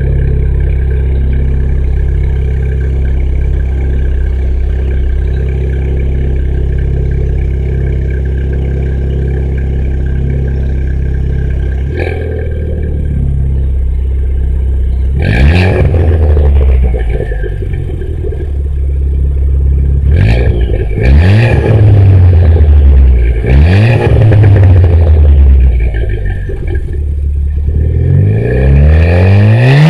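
Ford Fiesta ST's 1.6-litre EcoBoost turbo four-cylinder, breathing through a 3-inch MBRP catback exhaust and a Mishimoto cold air intake, idling steadily, with the idle dropping lower about twelve seconds in. Then it is revved in several quick blips, each climbing and falling back, and it climbs again near the end.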